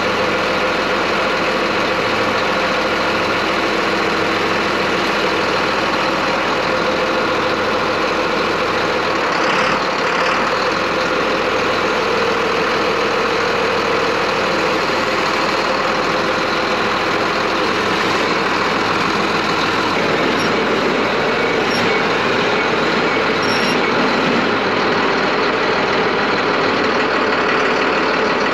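Engine of a large farm machine running steadily, a continuous drone with a held hum and no breaks.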